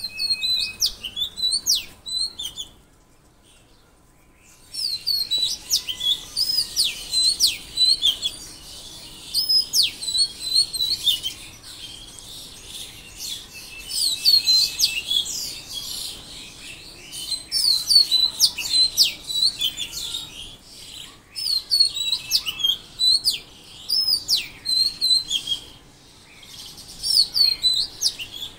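Songbirds chirping and singing in quick, repeated high-pitched phrases that come in clusters, with a pause of about two seconds near the start.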